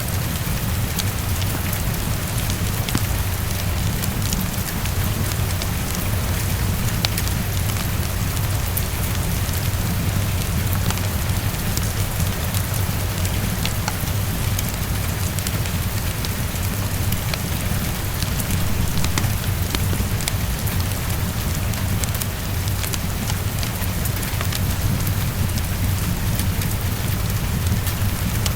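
Heavy rain falling steadily against a window, with a constant low rumble beneath it. A fireplace crackles through it with scattered small clicks and pops.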